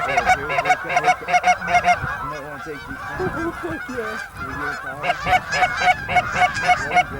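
Goose honking: rapid runs of loud honks, about four a second, in the first two seconds and again from about five seconds in, with quieter, lower calls between.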